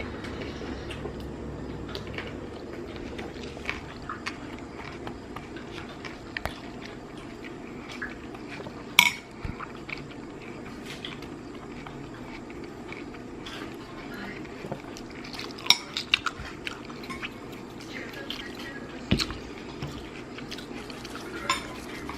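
A fork or other cutlery clicking and scraping against a dish while salad is eaten. The irregular clicks include a louder one about nine seconds in and a quick cluster around sixteen seconds.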